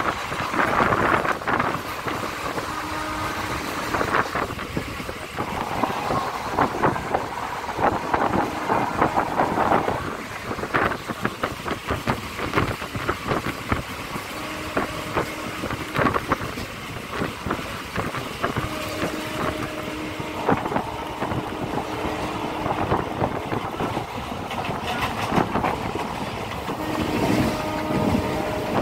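Train running along the track, heard from on board: a steady rumble full of rapid rattles and knocks from the wheels and carriages, with wind buffeting the microphone.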